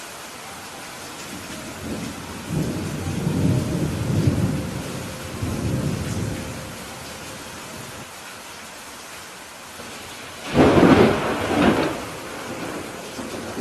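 Steady rain with a low rolling rumble of thunder from about two to six seconds in. Near the end a louder, sharper thunderclap breaks in suddenly and dies away over about a second and a half.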